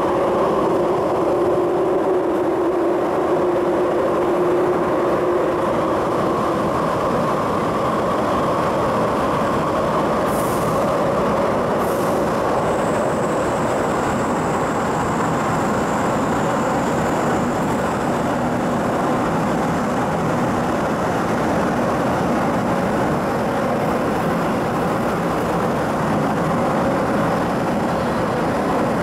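Mid-life-refurbished MTR East Rail Metro-Cammell electric multiple unit running along the line, heard on board: a steady rumble of wheels on rail under the whine of its traction motors, whose tones fade during the first few seconds. Two brief high clicks come about ten and twelve seconds in, followed by a faint high whistle for a few seconds.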